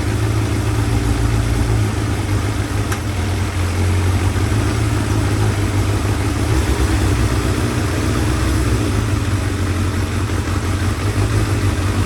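Motorcycle engine idling steadily, running after a missing bolt that caused a vacuum leak was replaced. One faint click is heard about three seconds in.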